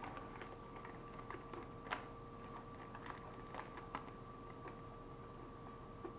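Faint, irregular crunchy clicks, one louder about two seconds in: a Hershey's Gold bar with peanut and pretzel pieces being chewed, and its wrapper handled.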